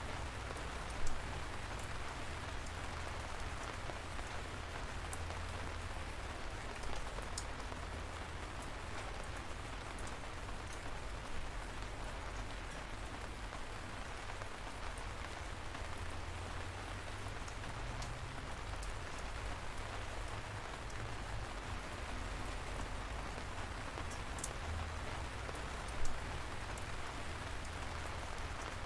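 Steady light rain falling, an even hiss with scattered sharp drops ticking on a surface, two louder drips about a second in and near the end, over a faint low rumble.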